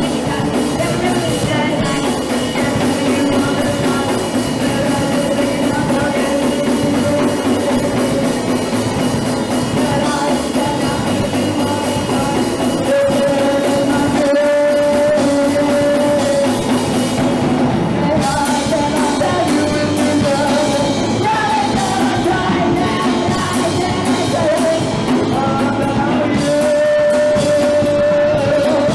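Punk rock band playing live: drum kit and instruments with a singer's voice over them, loud and steady.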